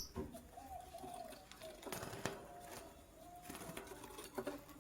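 Faint low bird calls, curving up and down, with a few soft taps and rustles about two seconds in and again near the end.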